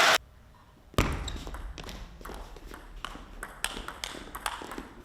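A plastic table tennis ball being struck and bouncing on the table: a run of sharp, irregular taps, some with a short high ping, starting about a second in.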